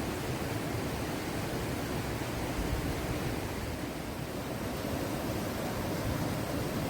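Steady rush of falling water from a waterfall, an even noise that holds level, fullest in the low range.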